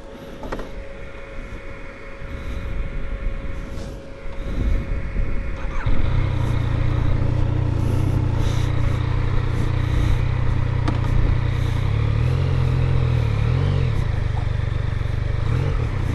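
Yamaha MT-09's three-cylinder engine coming in loud about six seconds in and then running steadily at idle, its pitch wavering briefly near the end.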